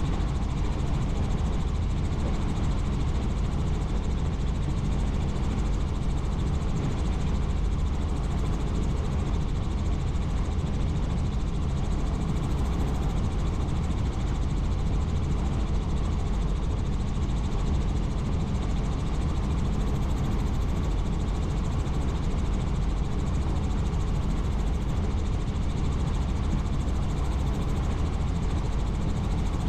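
Helicopter in steady flight, its engine and rotor running with an unchanging low drone.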